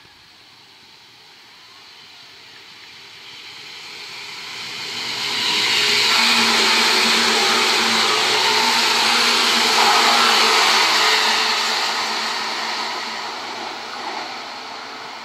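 Seibu 10000 series "New Red Arrow" limited express electric train passing at speed: the rushing wheel-on-rail noise builds over about five seconds, stays loud for several seconds with a low steady hum underneath as the cars go by, then fades.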